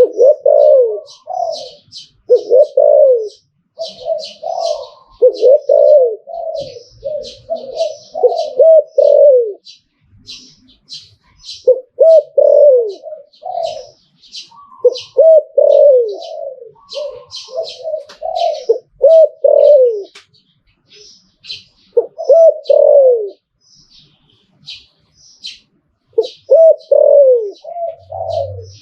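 Spotted dove (Thai nok khao yai) cooing its song in repeated runs of bouncing coo phrases, with a few short pauses between runs. Short high chirps run alongside the cooing.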